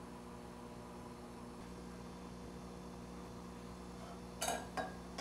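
Steady low electrical hum, with two brief sharp knocks about four and a half seconds in.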